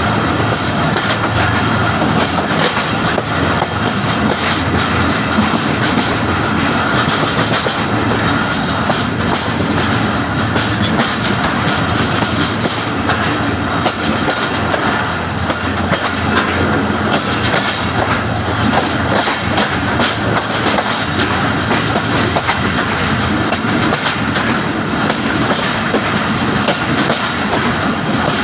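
Subak Raftar passenger express train running, its wheels clattering over the rail joints in a continuous loud rumble.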